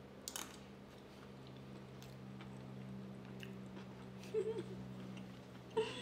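A person chewing a spoonful of soft cauliflower-rice and sausage stuffing with the mouth closed, faint, with a few soft clicks about half a second in as the spoon goes in. A brief closed-mouth hum comes about four seconds in.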